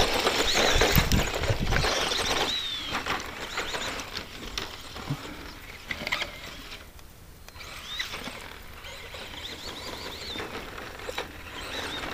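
ECX Circuit RC stadium truck's brushed electric motor whining up and down in short bursts as it is driven around a rough dirt track, with tyre crunches and knocks from the bumpy ground. The sound drops off in the middle and comes back near the end.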